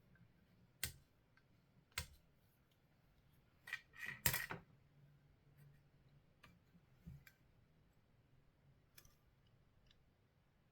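Sporadic sharp clicks of small hard parts being handled, with a short clatter about four seconds in and a few fainter clicks after it.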